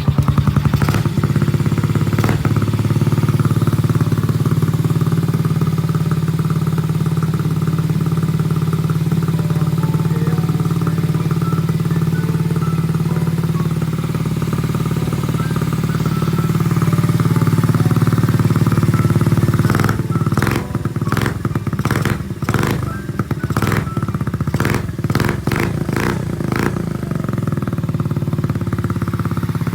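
Honda Gorilla minibike's small single-cylinder four-stroke engine, bored up to 85cc on the stock head, running steadily; its pitch shifts partway through. Near the end comes a run of sharp clicks.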